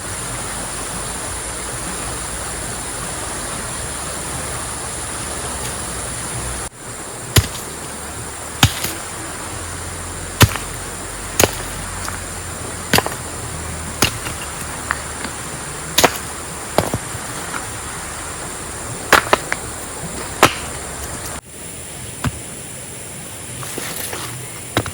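Steady rushing noise that stops and starts abruptly twice. Between the two cuts comes a series of about a dozen sharp knocks, roughly one to one and a half seconds apart.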